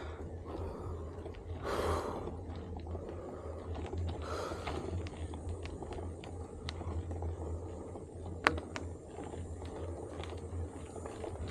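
A rider breathing out hard twice, a few seconds apart, over a steady low rumble, with scattered faint ticks and one sharp click past the middle.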